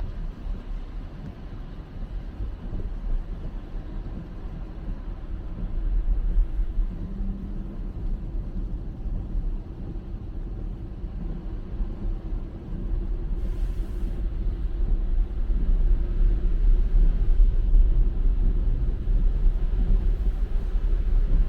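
Tesla Model Y driving on winter tires: a steady low tire and road rumble with no engine note, growing louder about 13 seconds in, with a brief hiss around then.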